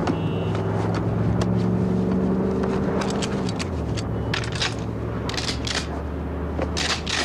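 A car engine idling with a steady low hum that drops in pitch about halfway through, under a run of sharp metallic clicks and clacks of guns being handled and loaded.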